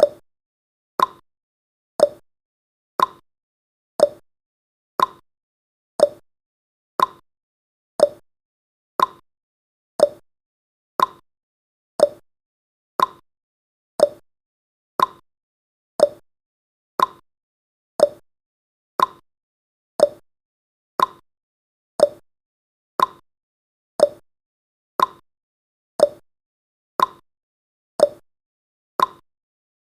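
Clock-style ticking sound effect of a countdown timer: one short tick every second, alternating between a higher and a lower tick like a tick-tock.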